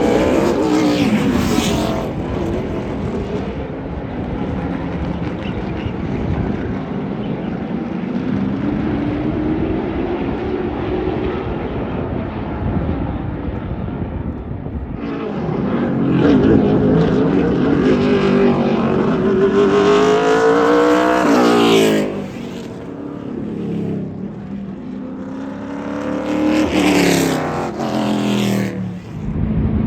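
Race car engines running on a track, revving and accelerating past, their pitch rising through the gears. The engines build up loudest past the halfway mark, drop off sharply, then rise again near the end.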